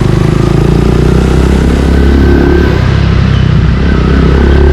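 Suzuki Gixxer 155's single-cylinder engine running steadily through an aftermarket Yoshimura exhaust, with a deep, even exhaust note.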